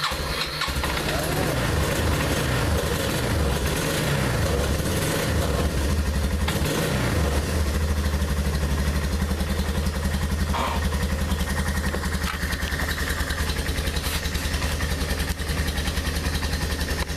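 2001 Yamaha Bear Tracker ATV's single-cylinder four-stroke engine running just after a cold start; its speed rises and falls unevenly for the first several seconds, then settles into a steady idle.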